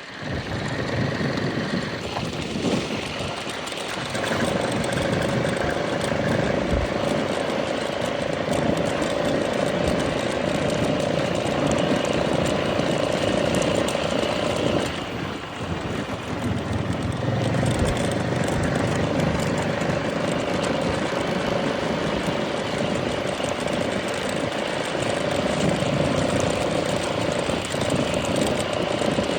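An engine running steadily under a constant noisy rush, with a held hum that drops out for a couple of seconds about halfway through.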